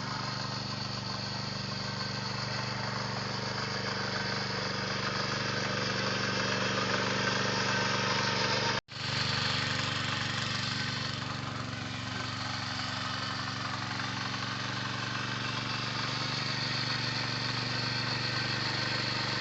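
Small tractor's engine running steadily, with a momentary break in the sound about nine seconds in.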